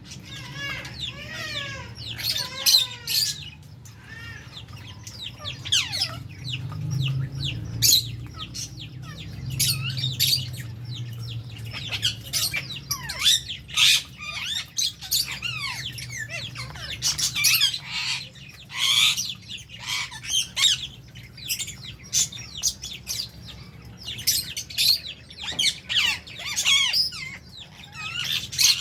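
A flock of lovebirds and budgies chattering and giving short, sharp, high-pitched squawks over and over, with a low steady hum underneath.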